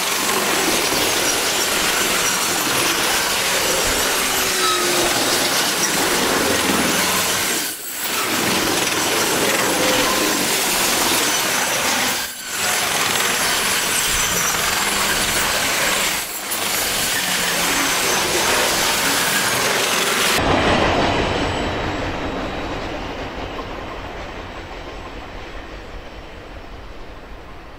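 CN double-stack container train rolling past close by: a loud, steady rush of wheel and rail noise from the well cars. About twenty seconds in it changes to a duller rumble that fades as the train moves away.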